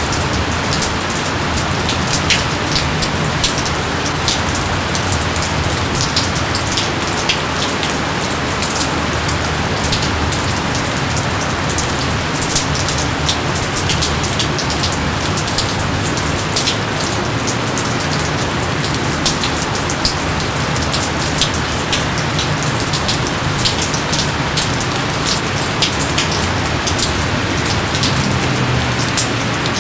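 Steady heavy rain, a dense hiss with many separate drops pattering on leaves and surfaces.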